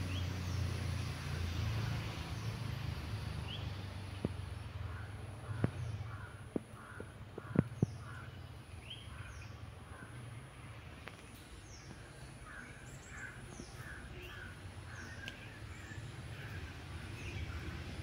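Birds calling: runs of short repeated calls, about two a second, with thin high chirps, over a low steady rumble. A few sharp clicks come about four to eight seconds in.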